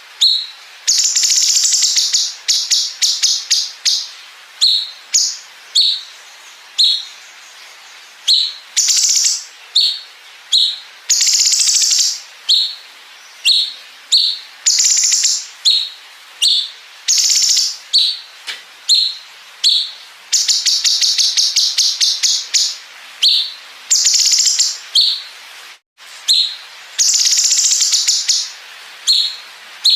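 A cucak cungkok bird singing loudly. It repeats short, sharp, high chirps about once a second, broken by long, rapid machine-gun-like rattling trills of one to two seconds (the 'bren' phrases prized in competition songbirds).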